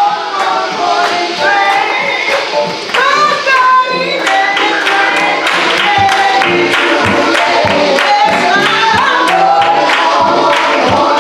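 Music with several voices singing together over a steady beat of regular percussive strokes, in the style of a gospel song.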